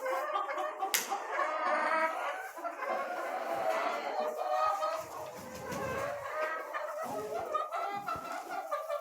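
A flock of chickens clucking, with many short, overlapping calls and a sharp click about a second in.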